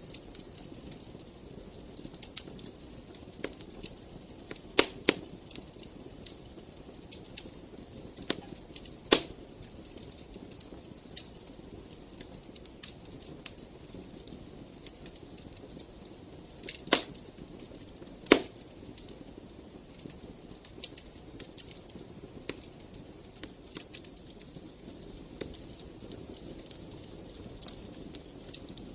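Wood fire crackling: a steady scatter of small snaps over the soft low rush of the flames, with a few louder pops.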